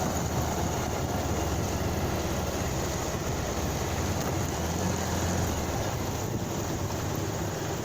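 Motorcycle being ridden at a steady pace: a constant low engine drone under even road and rushing-air noise.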